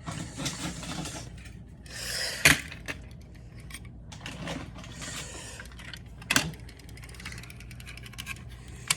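Small hard objects being handled and moved on a surface: irregular scraping and rubbing, with sharp clicks about two and a half seconds in, again past the middle, and near the end.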